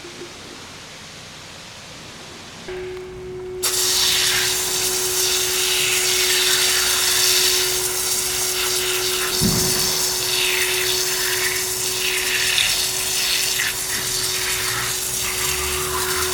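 Self-service car wash pressure washer: a steady pump hum starts about three seconds in, and a second later the high-pressure water spray comes on with a loud hiss that shifts in tone as the jet moves over the car.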